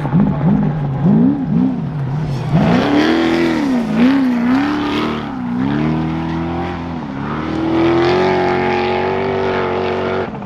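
Trophy truck race engine revving hard, its pitch swinging up and down rapidly as the throttle is worked. A rush of noise comes in at about two and a half seconds, and near the end the engine holds a steadier, higher note.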